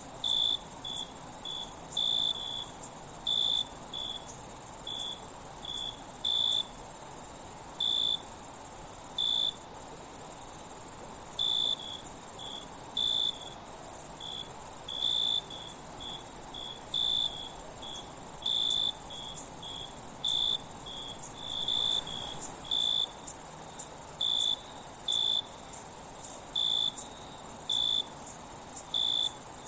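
Night insect chorus of crickets: a steady, very high-pitched drone with short, lower chirps repeating unevenly about once or twice a second. The sound cuts out for an instant a few times.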